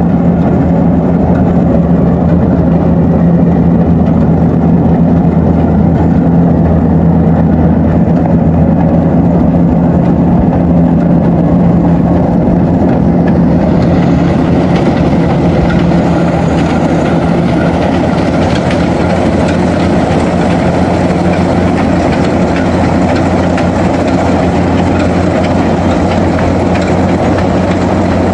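Rice combine harvester's diesel engine running steadily under load with a mechanical clatter. The clatter grows brighter about halfway through.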